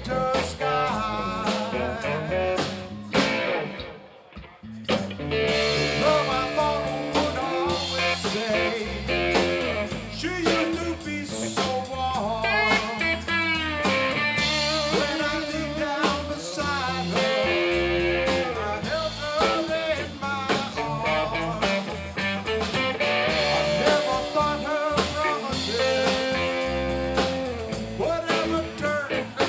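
Band playing a blues-rock song with electric guitar to the fore and no sung words. The music stops briefly about four seconds in, then comes back in.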